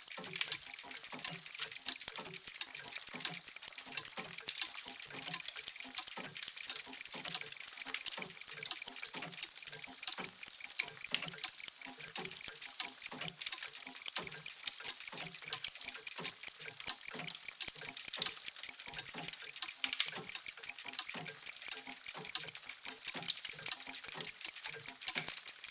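Many mechanical clocks ticking at once, their ticks overlapping into a dense, steady clatter with deeper knocks beneath.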